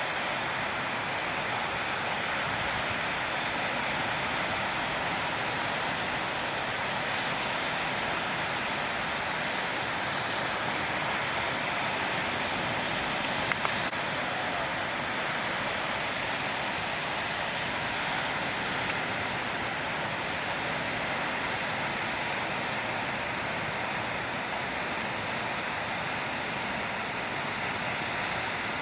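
Steady rushing roar of ocean surf breaking, even in level throughout, with a faint click about halfway through.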